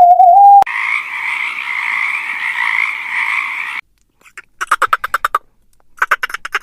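Frog calling: two rapid pulsed croaking trills, the second starting about a second after the first ends. Before them a whistle tone cuts off and a steady hiss runs for about three seconds, then stops suddenly.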